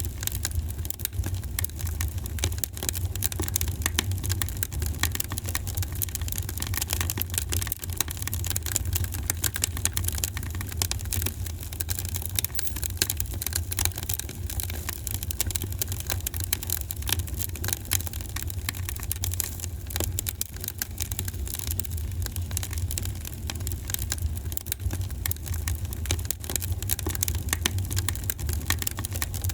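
Wood fire crackling in a fireplace: a steady stream of small, irregular pops and snaps over a constant low rumble.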